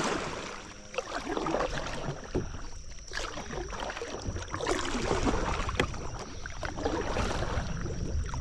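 Water splashing and sloshing around a kayak on the river, with irregular splashes and a few sharp knocks, over a steady low rumble of wind on the microphone.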